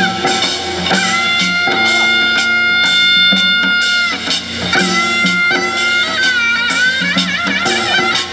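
Korean traditional music played live: a reedy wind instrument holds long notes that bend and waver with wide vibrato over a steady drum beat.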